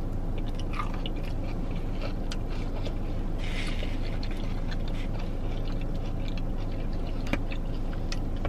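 A person chewing a mouthful of Korean fried cheese on a stick, with small wet mouth clicks throughout, over a steady low hum.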